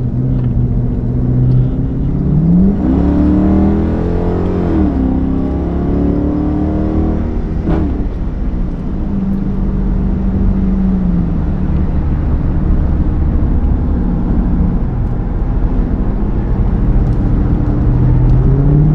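Straight-piped Hemi V8 of a 2022 Chrysler 300 S under way, accelerating and changing gear. The engine note climbs about three seconds in, drops back, holds steady at cruise, then climbs again near the end.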